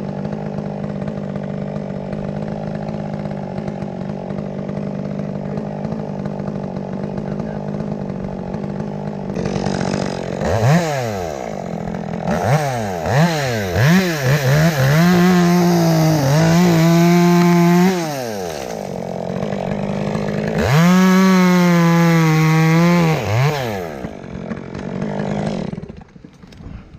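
Two-stroke chainsaw idling, then revved up and down several times and held at full throttle twice, as in cutting through dead wood. It drops back toward idle near the end.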